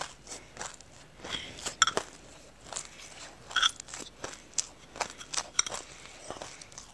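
Close-up crunching and chewing of a mouthful of sesame seeds, a dense run of small crackles, with a metal spoon scraping and clinking in a glass cup a couple of times.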